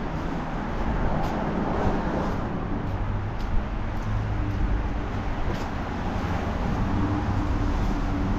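Street traffic with a vehicle engine running, mixed with wind buffeting the microphone. A steady engine hum comes in about four seconds in.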